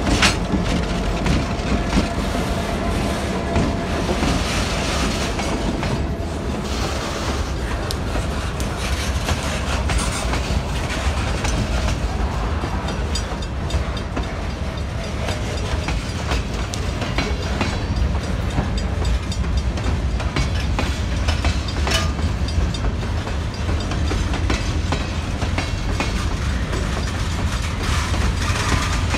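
Freight train rolling past close by. The trailing CN GP9RM locomotive's diesel fades during the first few seconds, then loaded centerbeam lumber cars and empty gondolas roll by with a steady rumble, their steel wheels clicking and clanking over the rail.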